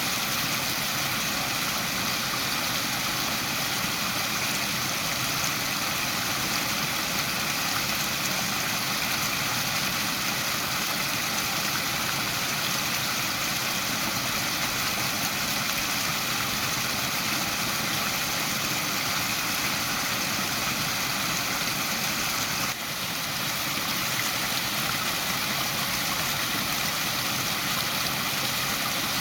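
Small waterfall: a steady, even rush of falling water, with one brief drop in level about three-quarters of the way through.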